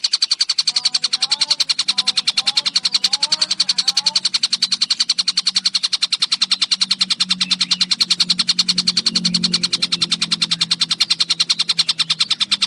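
Tengkek buto kingfisher giving a fast, even chatter of harsh clicking notes, repeated without a break.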